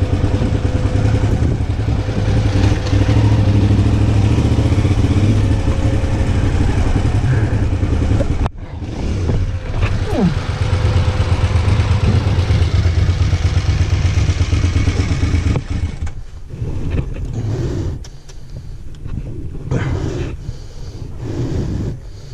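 A 990 motorcycle's engine running with a steady low drone. It breaks off sharply about eight seconds in, then comes back. From about sixteen seconds on, the drone gives way to quieter, irregular knocks and rustling.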